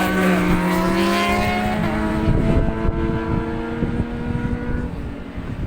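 Racing motorcycle engines running at steady speed, their pitch sagging slightly as they fade into the distance, with wind buffeting the microphone.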